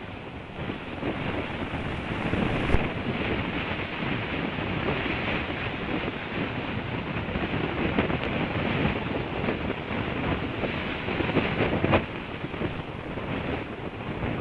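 Wind buffeting an outdoor nest-cam microphone, a steady rushing noise that strengthens about a second in, with a couple of brief sharp knocks.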